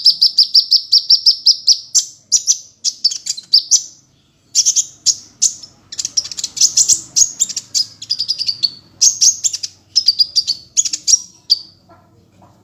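Kolibri ninja sunbird singing: rapid series of high, sharp chirps and trills in phrases of one to two seconds, separated by brief pauses, with a longer break about four seconds in.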